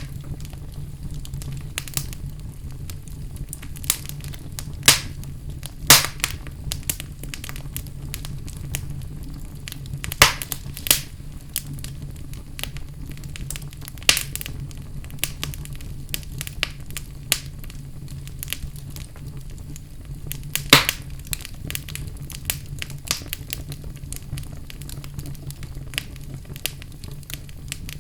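Fire burning in a fireplace: a steady low rumble of flames with irregular wood crackles and sharp pops, a few of them louder than the rest.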